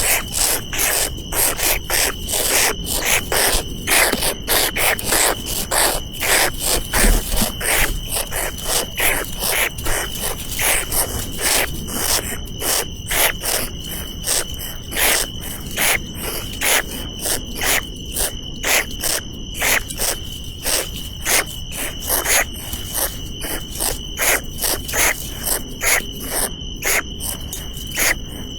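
Insects stridulating: a steady high buzz with rhythmic rasping pulses about three a second, which stop near the end.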